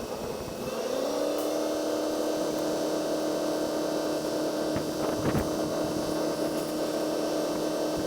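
Engine rising slightly in pitch about a second in, then running at a steady, even speed; a couple of faint knocks about five seconds in.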